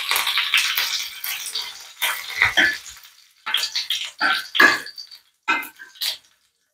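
Curry leaves and crushed garlic sizzling and spluttering in hot oil on a dosa tawa, the sizzle fading over the first two seconds. Then a series of short crackles and scrapes as they are stirred with a spatula, stopping about six seconds in.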